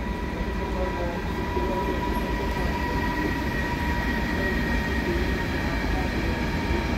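Container freight train rolling past behind a Bombardier Traxx DC3 electric locomotive: the locomotive goes by at the start, then the wagons' wheels on the rails give a steady rumble with a thin high whine held throughout.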